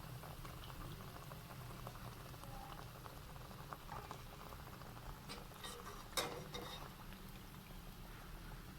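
Dough biscuits deep-frying in hot oil: a faint, steady bubbling crackle, with one sharp click about six seconds in.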